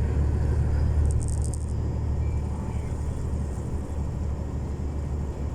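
Diesel engine of a long-haul semi truck running, heard from inside the cab as a steady low drone.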